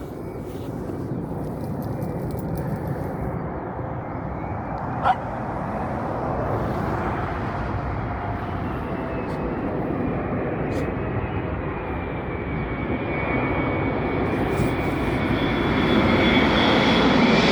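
Boeing 777 twin-jet airliner on its landing approach, its engine noise swelling steadily as it comes closer, with a rising high whine near the end. A single short click about five seconds in.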